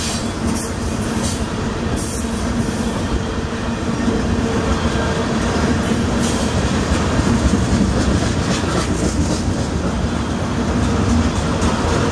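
A train rolling past on the rails: a steady loud rumble with a constant low hum and scattered clicks from the wheels.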